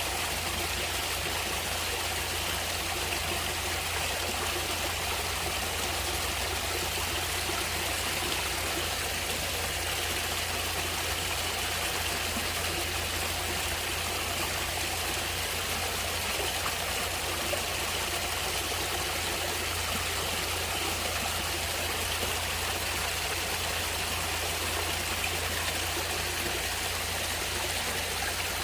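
Natural stream of water running steadily: an even, unbroken rushing with a low rumble underneath.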